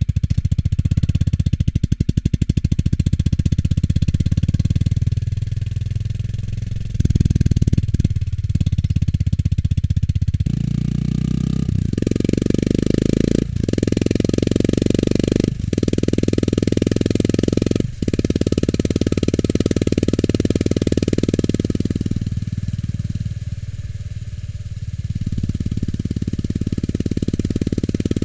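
Honda GB350 S single-cylinder engine running through its stock muffler while riding, a steady pulsing exhaust note. In the middle it cuts out briefly three times, as on quick gear changes, and near the end it drops into a quieter lull before picking up again.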